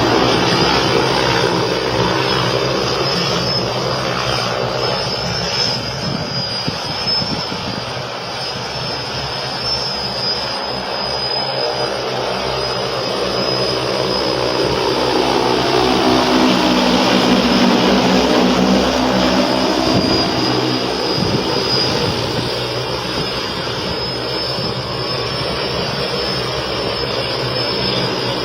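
Electric manned eVTOL aircraft in flight: its propellers and electric motors give a steady whirring drone with a high whine on top, the pitch bending down and back up about halfway through as it moves past.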